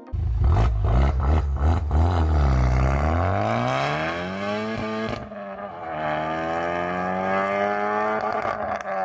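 Japanese performance car's engine and exhaust running under load: the engine note dips about two and a half seconds in, climbs steeply, breaks off briefly about five seconds in, then rises slowly again.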